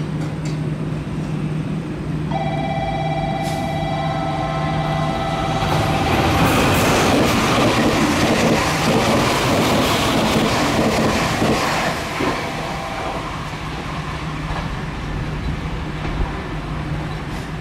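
A train passes by, its rushing noise building to a peak about six seconds in and fading after about twelve seconds, with a set of steady high tones sounding from about two seconds in until near the pass's end.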